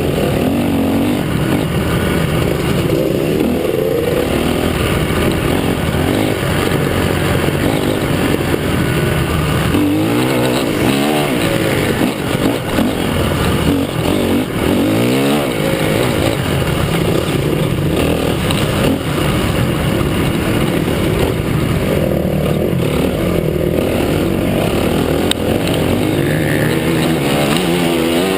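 Motocross bikes on a dirt track, engines revving up and down with rising and falling pitch.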